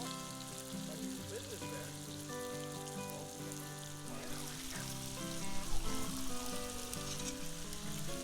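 Steak fajita meat sizzling in a cast iron skillet over a campfire, under background music.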